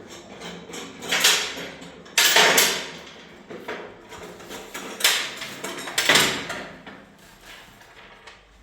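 Four short sliding or scraping noises with pauses between them, like something being dragged or slid open.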